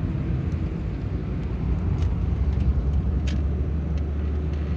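Car running, a steady low rumble of engine and road noise, with one short high-pitched tick a little over three seconds in.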